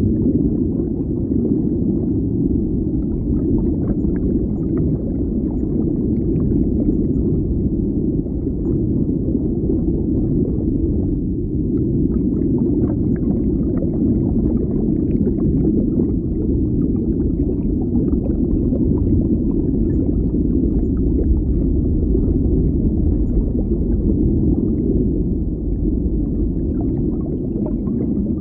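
Underwater ambience: a steady, deep rumble of moving water, with faint scattered crackles and pops on top.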